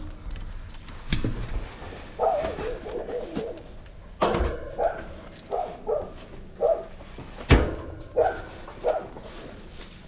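A bird cooing in a run of short low notes, with three loud knocks about three seconds apart.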